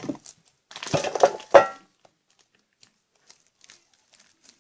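Slime mixed with shaving cream being squeezed and stretched by hand: a burst of wet crackling and squelching about a second in, ending in a short squeaky squelch, then faint small clicks.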